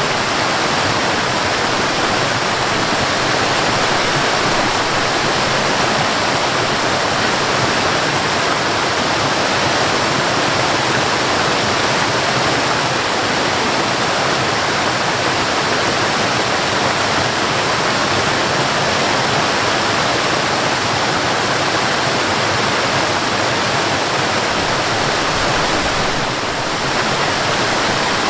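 Waterfall: falling water rushing steadily, dipping slightly in loudness once near the end.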